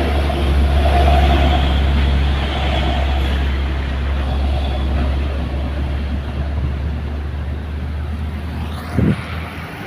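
Heavy truck's diesel engine running, a deep steady drone that slowly fades, with a short knock about nine seconds in.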